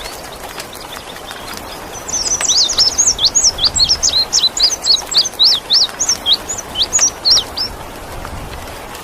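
An indigo bunting sings a fast, twittering run of high chirps and sweeping notes for about five seconds, starting about two seconds in, over a steady hiss of rain.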